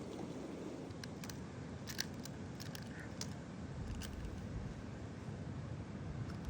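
Steady low wind and surf rumble, with a scatter of short sharp clicks and ticks from about one to four seconds in.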